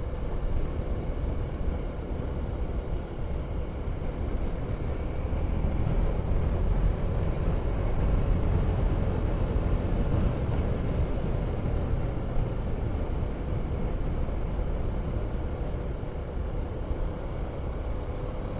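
Wind rushing over the microphone of a moving motorcycle, with the KTM 390 Duke's single-cylinder engine running at a steady cruise beneath it as a faint, even engine note.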